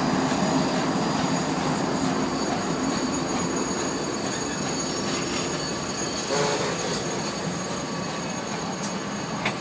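A steam-hauled train's cars rolling past on steel wheels and rails, a steady rumble that eases slightly, with a brief wheel squeal about six and a half seconds in.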